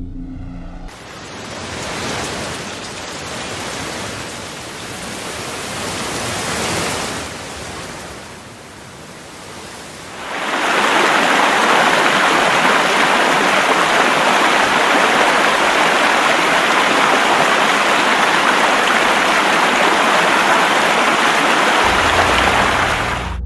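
Rushing floodwater, a noisy rush that swells and fades over the first ten seconds, then becomes a loud, steady torrent from about ten seconds in until it cuts off near the end.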